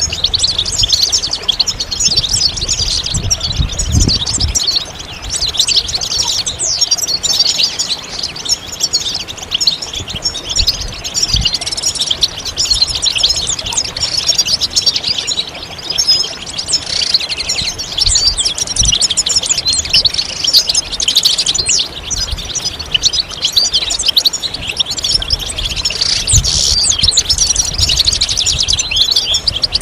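European goldfinch song: a dense, unbroken stream of rapid high twittering notes, trills and short glides.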